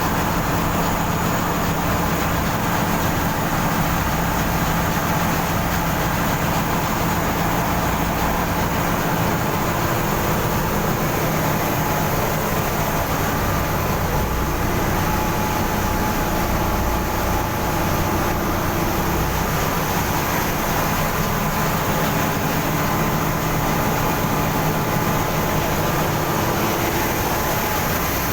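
GEA Westfalia centrifugal fuel oil / diesel oil purifier running in a ship's engine room: a loud, steady machinery hum with several held tones over a low rumble.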